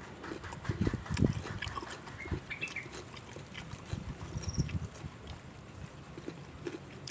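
Close-miked chewing and mouth sounds of someone eating fruit salad: irregular crunching and wet smacking clicks.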